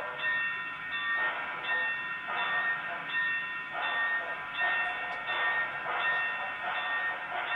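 Train sounds from a sound-fitted OO gauge model locomotive running: steady tones that break and restart in a regular rhythm.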